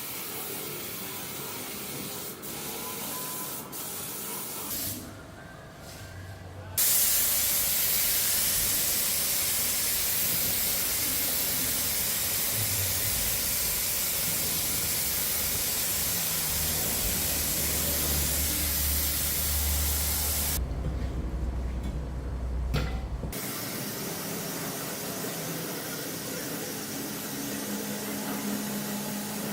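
Steady spraying hiss, loud from about seven seconds in, with sudden changes in level and tone where the footage cuts.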